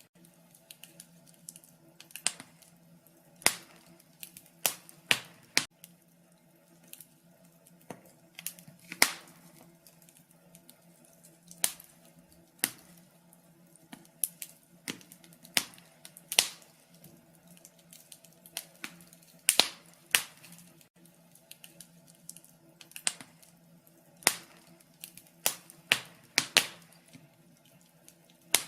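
Fire in a fireplace crackling, with sharp irregular pops and snaps, one to several a second and varying in loudness, over a faint steady hum.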